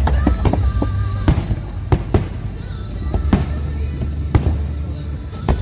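Fireworks show: a run of sharp bangs and crackles, roughly one or two a second, over music with a steady bass.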